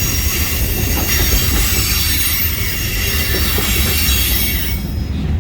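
Freight train cars rolling past with a steady low rumble and a high, thin squeal of steel wheels on the rails; the squeal drops away for a moment near the end.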